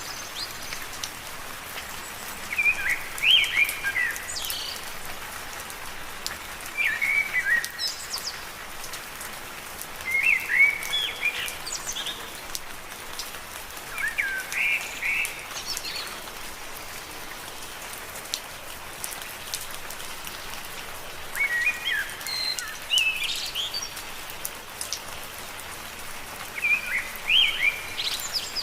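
Steady rain falling on leaves, with a bird singing a short chirping phrase every few seconds and a longer pause in the middle.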